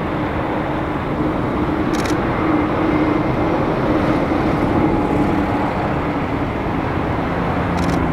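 Distant freight train, an EF210 electric locomotive hauling a long string of tank wagons, running steadily, heard as a continuous rumble with a low hum that grows a little louder in the middle.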